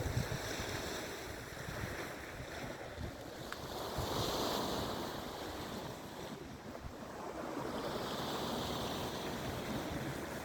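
Sea waves washing in, swelling about four seconds in and again near eight seconds, with wind rumbling on the microphone.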